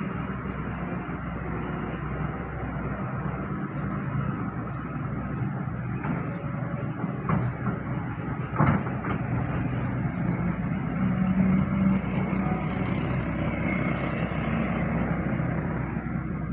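Heavy construction machinery's engine running steadily, with two sharp knocks about halfway through, the second louder, and the engine briefly louder a few seconds later.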